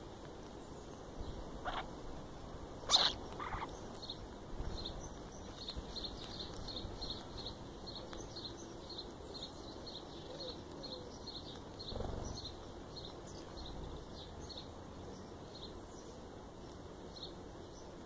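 Garden birds calling: a steady run of short, high chirps, about two to three a second, with a single louder, harsher call about three seconds in.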